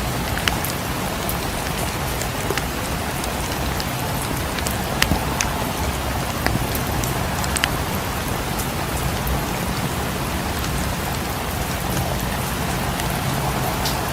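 Steady rain falling, with a low rumble underneath and scattered sharp crackles from a fireplace, heard throughout.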